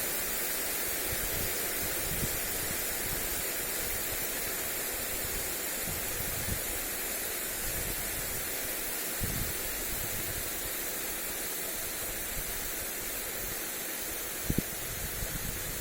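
Steady hiss of a lawn sprinkler's spray falling on grass, with wind gusting on the microphone as an uneven low rumble. A brief sharp click near the end.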